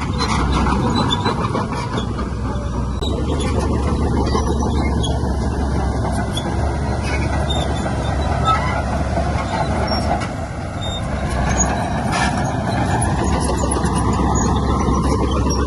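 Heavy diesel earthmoving machinery running steadily: a continuous low engine rumble with scattered small clicks and knocks.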